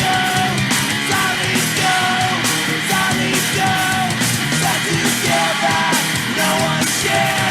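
Punk rock band playing an instrumental passage on a demo tape recording: a loud full band with drums and cymbals under a lead melody of held and bending notes.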